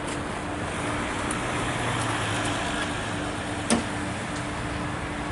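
Steady background traffic noise with a faint steady hum, broken by one sharp click a little past the middle.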